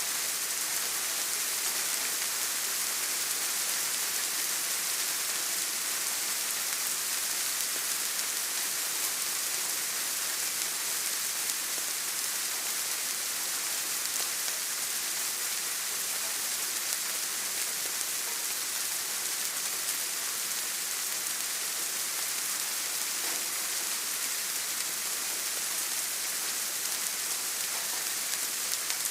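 Steady rain falling, a dense, even hiss weighted toward the high end, with no change throughout.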